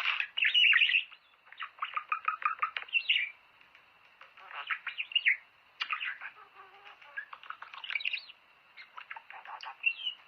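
Budgerigars chattering and warbling: runs of quick chirps and trills in short bursts, with brief pauses between them.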